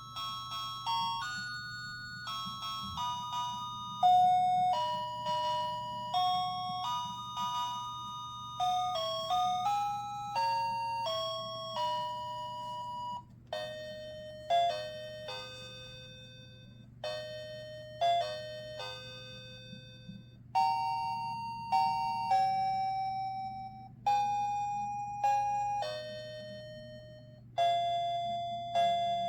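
A tinny electronic melody played in bell-like chiming notes, each note struck and then fading, over a faint steady hum.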